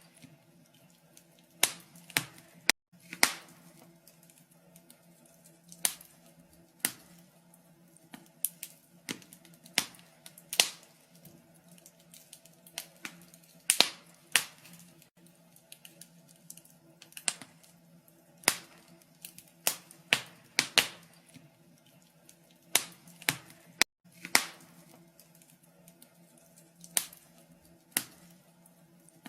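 Wood fire crackling, with irregular sharp pops and snaps of burning logs, over a faint steady low hum.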